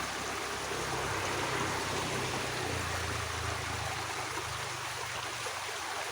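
Water flowing steadily in a small irrigation ditch, a continuous rushing hiss, with a low hum underneath.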